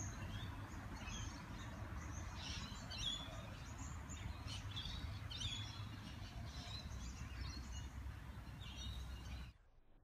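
Small birds chirping in short, repeated calls over a steady low rumble of outdoor background noise; the sound cuts off suddenly near the end.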